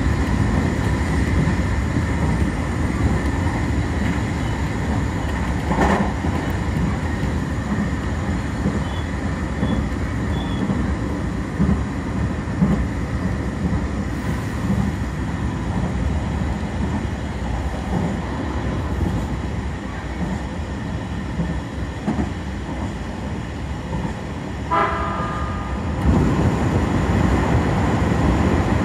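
Steady rumble of a commuter electric train heard from inside the carriage as it runs along at speed. About 25 s in there is a short horn toot, and from about 26 s the running noise gets louder as the train enters a tunnel.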